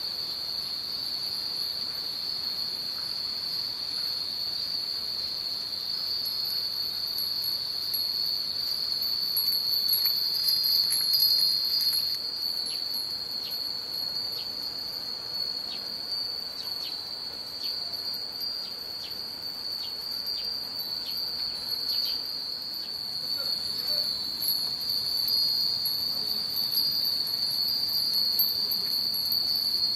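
Many Nanbu cast-iron wind bells (furin) ringing in the breeze, with a flurry of separate clear strikes in the middle, over a steady high-pitched drone.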